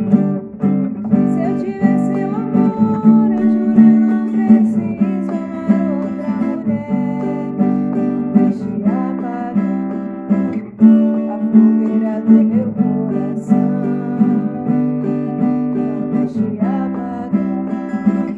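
Acoustic guitar strummed steadily through a sequence of chords, played as accompaniment to a sertanejo song.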